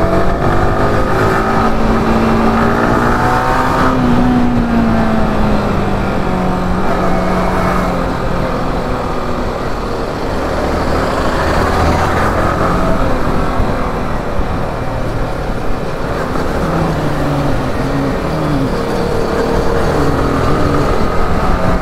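Motorcycle engine running under the rider at city-traffic speed, its note climbing briefly and easing off about four seconds in, over steady wind and road noise.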